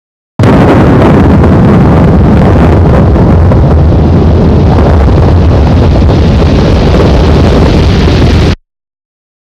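Very loud, overloaded low rumble of motorcycles with wind buffeting the microphone, starting suddenly about half a second in and cutting off abruptly near the end.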